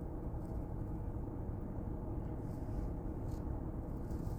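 Steady low background rumble with a few faint, soft noises over it.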